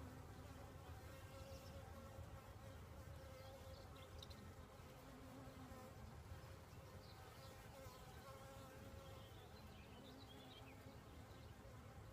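Honeybees buzzing around an open hive: a faint, steady hum of many bees, with wavering pitches drifting in and out.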